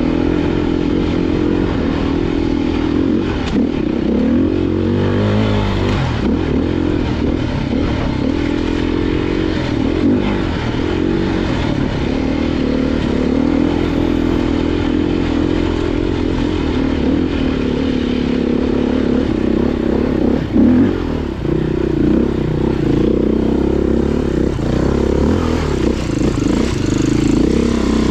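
Off-road dirt bike engine running at low to moderate revs on a trail, the pitch rising and falling as the throttle is worked, with clatter and scraping from the bike over the ground.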